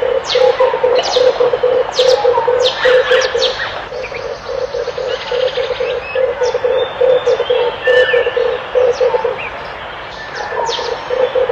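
Red turtle dove cooing: a long run of rapid, low pulsed notes that stops about nine seconds in and starts again near the end. Sharp, high chirps of other small birds come over it throughout.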